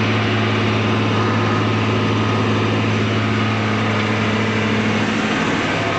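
Tractor engine running steadily: a low, even drone with no change in speed.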